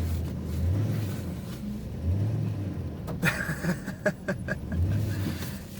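Pickup truck engine revving in about three surges while the truck sits stuck in deep snow, its wheels not getting traction. A few sharp clicks or knocks come in the middle.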